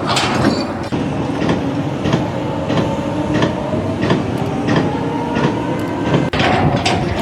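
A machine or vehicle running with a steady rumble and a regular clack about every two-thirds of a second, with a faint, slowly rising whine.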